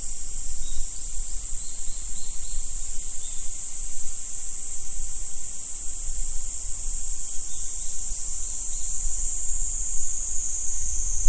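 Steady high-pitched chorus of insects singing without a break, with a few faint short chirps scattered through it.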